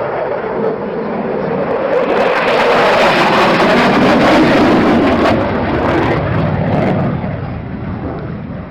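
An aircraft flying past: a roar that swells to its loudest about midway, drops in pitch as it passes, then fades away near the end.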